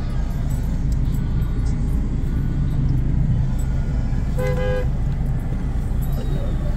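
Steady low rumble of car traffic in a jam, with one short car-horn toot about four and a half seconds in.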